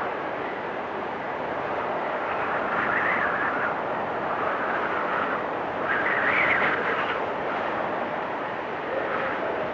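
Blizzard wind blowing steadily, swelling in gusts about three seconds in and again around six seconds in.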